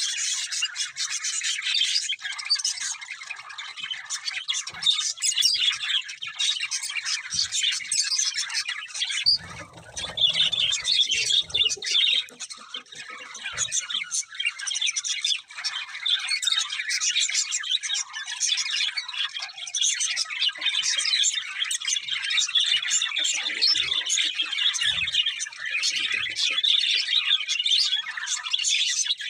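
A group of budgerigars chirping and chattering continuously, with sharp squawks mixed in. There is a brief low thump about ten seconds in.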